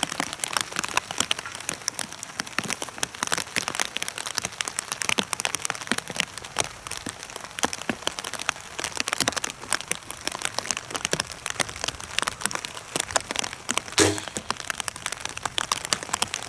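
Heavy rain pattering: a dense, continuous spray of sharp drop ticks on a nearby surface. A brief low thump comes about fourteen seconds in.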